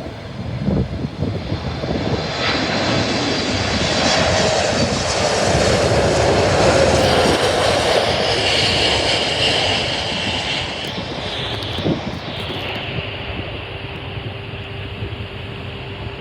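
Boeing 747-8's four GEnx turbofan engines on landing: jet noise builds to a peak about halfway, then fades as the airliner passes.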